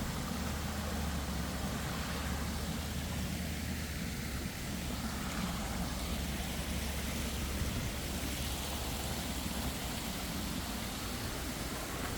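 Steady outdoor rushing noise with a constant low rumble underneath.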